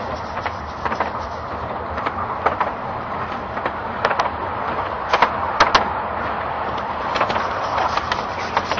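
Carriage of a 15-inch gauge steam railway train running along the track: a steady rolling rumble with sharp clicks and clacks of the wheels over the rail joints, several close together about five to six seconds in.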